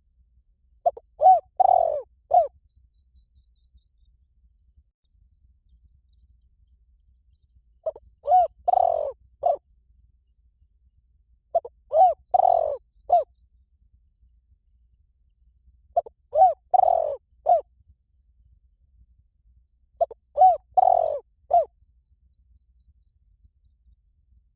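Spotted dove cooing: five phrases of three or four low notes, a short coo, a longer rolling coo and a short closing coo, repeated about every four seconds.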